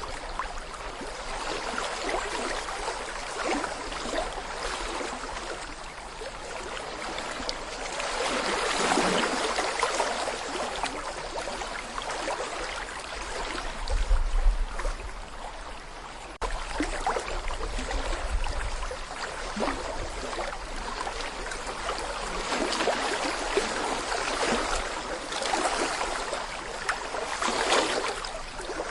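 Small brook babbling over stones: a steady, splashing, gurgling water sound that swells and eases every few seconds. A brief low rumble underlies it about fourteen seconds in, and again a few seconds later.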